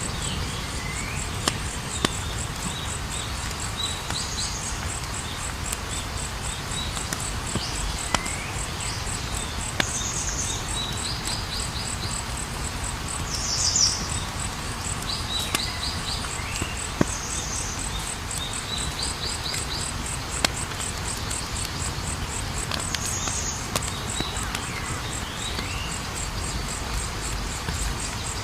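Campfire burning with a low rumble and sharp crackling pops every few seconds. Crickets trill steadily behind it, and short falling chirps come every few seconds.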